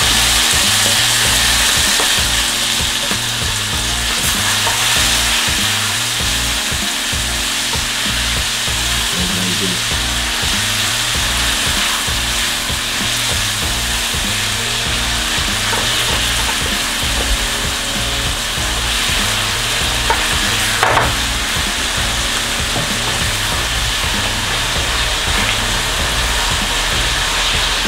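Chicken and vegetables sizzling steadily in a frying pan of hot brown-sugar caramel and oil as they are stirred with a spatula: the caramelising stage of a Caribbean stew. A single short knock about 21 seconds in.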